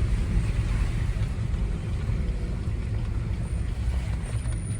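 Vehicle on the move at a steady speed: a continuous low rumble of engine and road noise, with wind buffeting the microphone.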